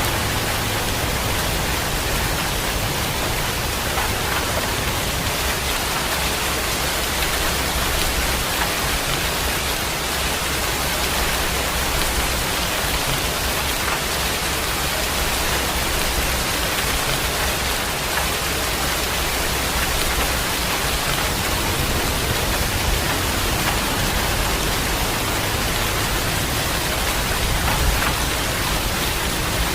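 Heavy rain falling steadily: a dense, even hiss, with a low rumble underneath that comes and goes.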